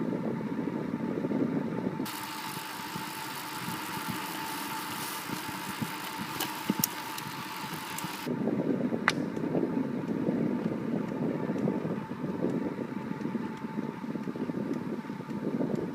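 Riding noise on a bicycle-mounted recording: a steady low rumble from the tyres and wind on the microphone. From about two seconds in, a loud hiss joins it and cuts off suddenly around eight seconds, with a few clicks.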